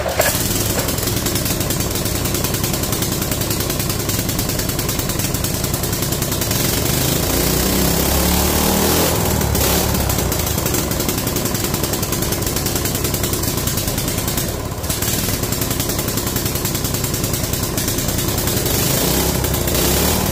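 Harbor Freight Predator small single-cylinder engine on a mini bike starting and then running steadily, with a slight change in its note partway through and a brief dip near the end. It runs after water has been drained from its carburettor float bowl, with the throttle linkage not working.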